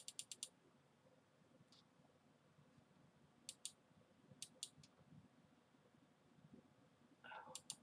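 Near silence with small, sharp plastic clicks from a camera's zoom control being worked: a quick run of clicks at the start, then a few short groups of faint clicks midway.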